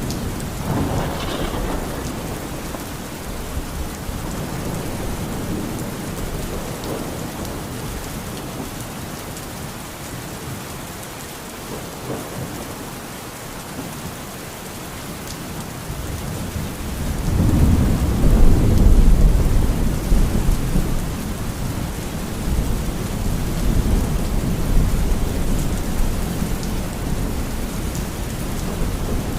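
Steady heavy rain with rolling thunder. A brief rumble comes near the start, and a louder, long roll of thunder swells a little over halfway through, then fades back into the rain.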